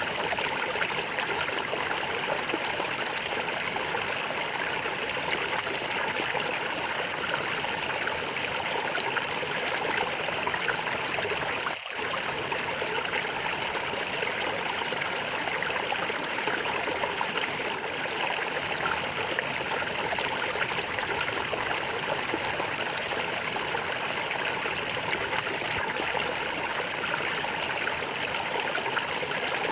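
Flowing water gurgling and trickling steadily, with one very short drop in level about twelve seconds in.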